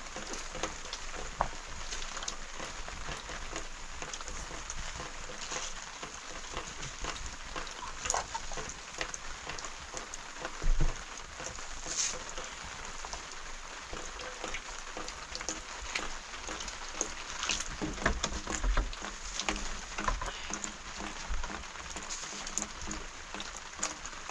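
Steady rain pattering, with a few low thumps, the loudest about eleven seconds in.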